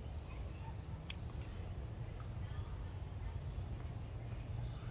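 Crickets chirping steadily, a few high chirps a second, over a low background hum.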